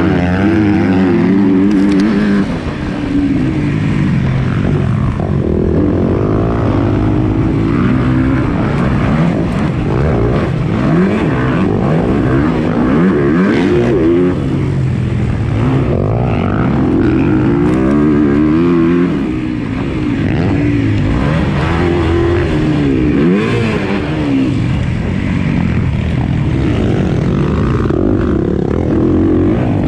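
Motocross bike engine, ridden hard: revs climbing and falling over and over through gear changes, with a couple of brief throttle-offs.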